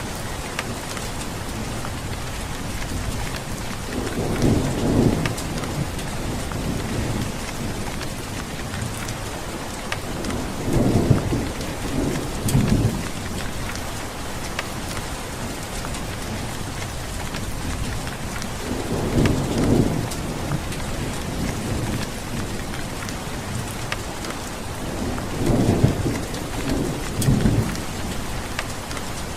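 Steady rain with thunder rumbling four times, each roll lasting a couple of seconds, and the odd sharp drop tick over the rain.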